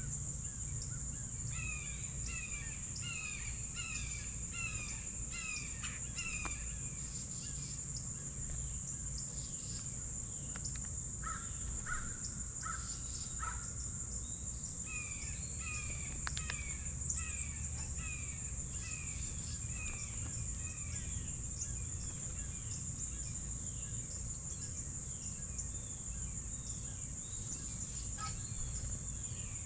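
Wild birds calling: two runs of repeated down-slurred call notes, about two a second, with a few lower notes between them, over a steady high-pitched whine.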